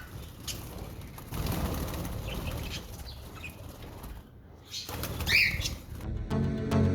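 Budgerigars' wings flapping in a low fluttering rush, with a few short chirps and one louder call about five seconds in. Music starts near the end.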